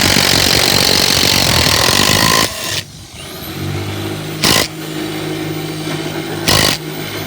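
Power drill driving screws into the wooden framing of a ramp: one long run of about two and a half seconds that stops abruptly, then two short bursts near the middle and end. A steady low hum carries on between the bursts.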